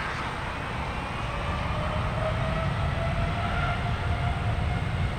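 Jet airliner engines running: a steady low rumble with a faint whine slowly rising in pitch.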